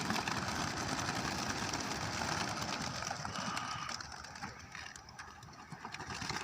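A flock of racing pigeons taking off together at release: a dense whirring flutter of many wingbeats that thins out after about three and a half seconds.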